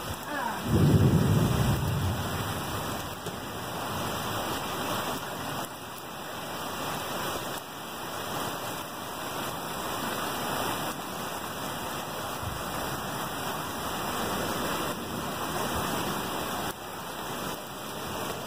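Heavy storm rain pouring down steadily. About a second in, a rumble of thunder swells and fades over a couple of seconds.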